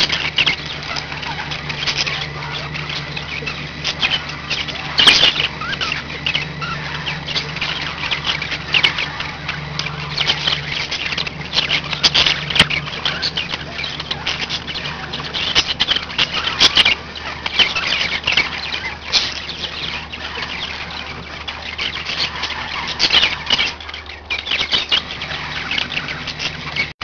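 Several pet budgerigars chattering and warbling without a break, with sharp chirps scattered through the chatter.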